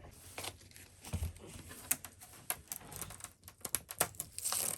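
Masking tape and paper being handled and peeled off a snowboard: a run of small clicks and crinkling rustles, ending in a longer ripping tear near the end.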